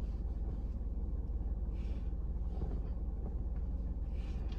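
Steady low hum of a car engine idling, heard from inside the cabin, with a couple of faint rustles.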